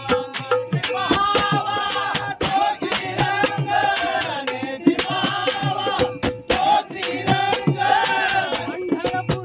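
Marathi bhajan music: steady hand-cymbal and drum strokes keeping the beat under a wavering, ornamented melody line.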